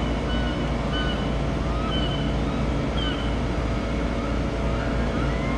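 Boat engine running steadily as a low rumble, with a few short high chirps over it.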